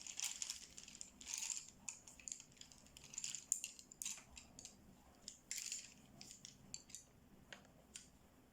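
Colouring tools being handled and used: irregular small clicks and clinks of hard tools knocking together, mixed with short scratchy strokes on paper.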